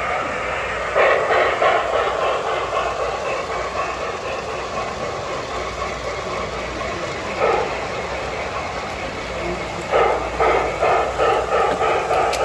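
Model train running on a show layout, a steady rumble with bursts of rapid clicking about a second in, again near the middle and from about ten seconds on, over the general murmur of a busy exhibition hall.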